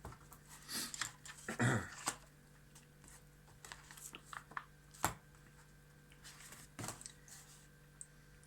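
Scattered small clicks and rustles of handling, with a brief low mutter about two seconds in; the sharpest clicks come about five and seven seconds in.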